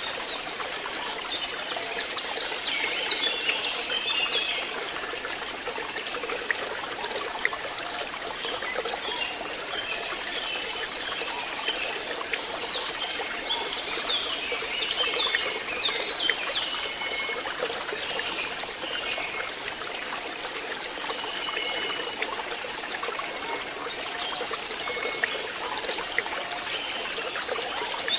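Water trickling and splashing steadily into a fish pond, with high chirps now and then, a few seconds in and again around the middle.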